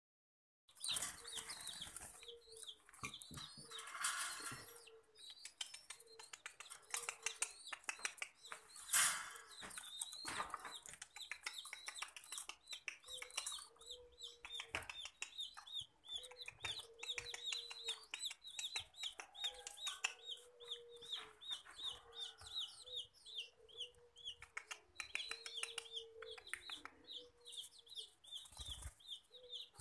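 Birds calling: a low cluck repeated about once a second under a fast, continuous run of high peeps, with rustling and clicks and a loud knock about nine seconds in.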